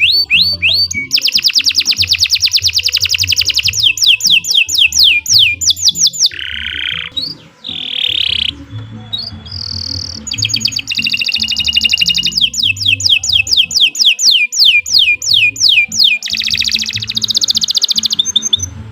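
Domestic canary singing a long, continuous song of rapid trills, each a run of fast, evenly repeated sweeping notes. Near the middle the trills break for a few slurred falling notes and a short held whistle, then fast trills resume.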